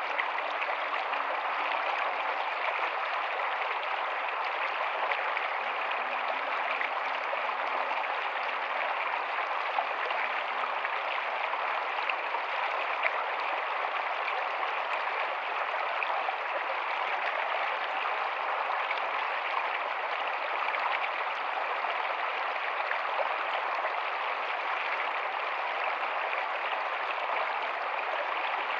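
Rocky stream running steadily over stones: a continuous, even rush of flowing water.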